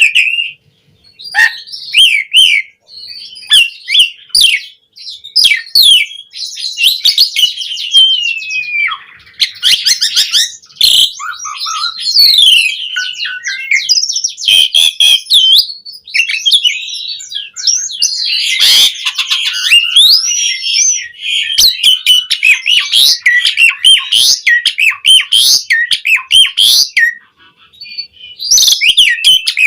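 Javan pied starling (jalak suren) singing vigorously: a rapid, varied stream of whistles, gliding notes, chatter and harsh squawks, broken by a brief pause near the end.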